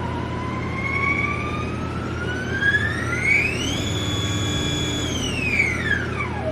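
Haas Desktop Lathe spindle motor whining as it speeds up, the pitch climbing steadily for a few seconds, holding briefly at top speed, then dropping quickly as the spindle slows, over a steady low machine hum.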